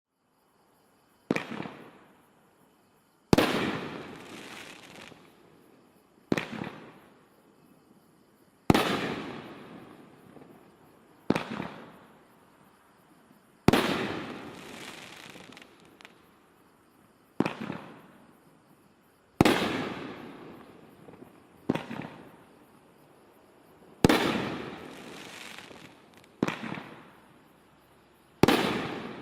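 Brothers Fireworks 'Paydirt' 500-gram cake firing six shots about every five seconds. Each shot is a sharp launch thump from the tube, followed about two seconds later by a louder aerial burst that trails off over a couple of seconds.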